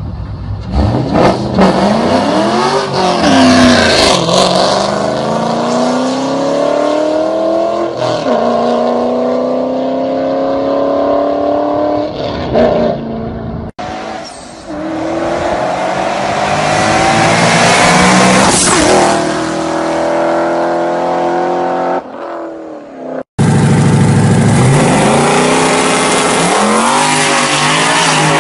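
Ford Mustang engines accelerating hard, the pitch climbing and then dropping back at each upshift, in three clips spliced together with abrupt cuts about halfway and near the end.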